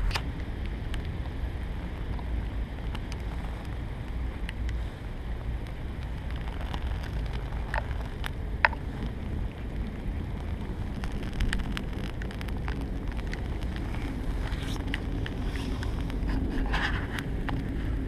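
Steady wind rumble on the microphone, with sparse small crackles from wet birch bark burning, and one sharper click about eight and a half seconds in.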